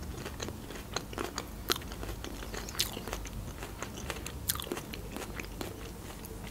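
A person chewing a mouthful of pomelo flesh with the mouth closed: irregular soft clicks and smacks, a few of them louder.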